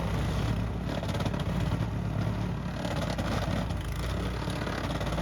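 An engine running steadily at close range, with a rattling clatter over its low hum.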